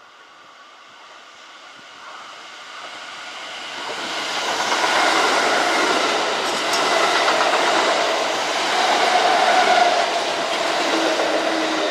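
Kintetsu electric train approaching and running past on the track. It grows louder over about five seconds, then stays loud, with a steady tone sounding over the running noise near the end.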